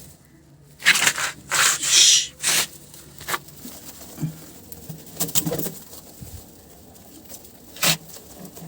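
A series of crinkling, crushing noises: several loud bursts in the first three seconds, a few more around the middle and one short one near the end.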